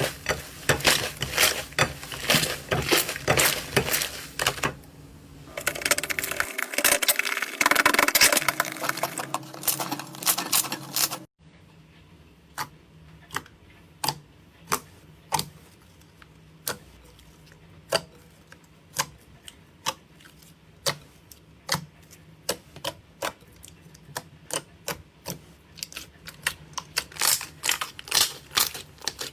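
Hand squeezing and poking slime, making sticky clicks and pops. They come thick and fast at first, then after a sudden drop in background noise about eleven seconds in they fall to single pops about one a second, growing quicker again near the end.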